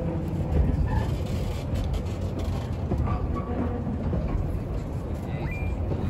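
Narrow-gauge train rolling past: a steady low rumble of wheels on the rails with scattered clicks, and a brief high squeal near the end.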